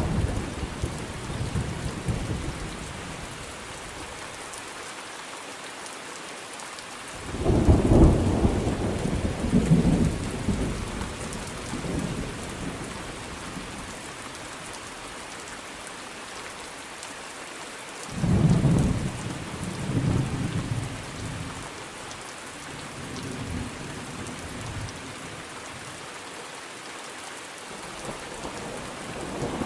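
Steady rain with rolling thunder: a loud thunder rumble breaks about seven seconds in and rolls away over a few seconds, a second one comes about eighteen seconds in, and another builds near the end.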